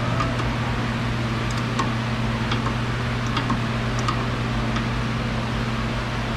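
Light metallic ticks and clicks, scattered irregularly, as a tie rod adjuster sleeve is turned by hand tool to lengthen the tie rod during a toe adjustment. A steady low hum runs underneath.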